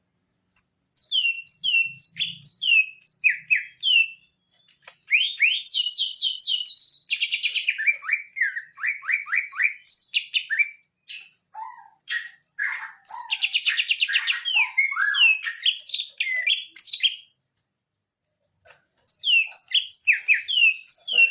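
Cucak ijo, a green leafbird, singing loud, varied phrases of whistles and fast trills. The song comes in four bursts with short pauses between them, the longest pause near the end.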